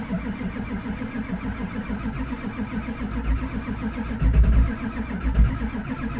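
Ford 7.3 L Power Stroke V8 diesel being cranked on the starter in a cold start, with steady rapid pulsing. From about four seconds in, heavier, uneven low thuds come in as the cold engine begins to fire.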